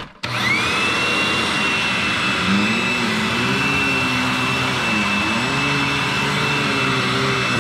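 2009 Hoover WindTunnel Anniversary Edition Supreme upright vacuum cleaner switched on and running. Its motor whine rises quickly to a steady high pitch, over a lower hum that wavers up and down in pitch through the middle as the vacuum is worked over the floor.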